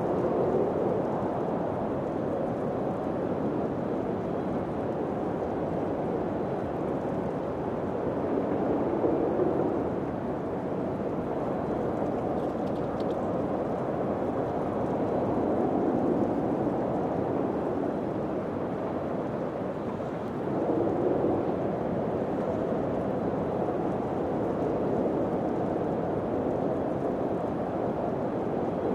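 Wind blowing steadily in a low rush, swelling in gentle gusts every several seconds.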